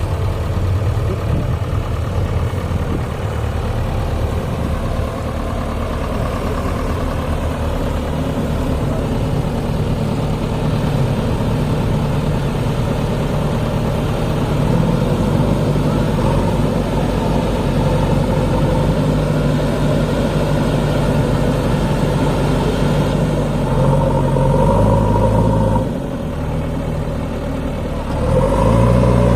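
Heavy diesel engine running steadily under load, its note dipping for a couple of seconds near the end and then rising again.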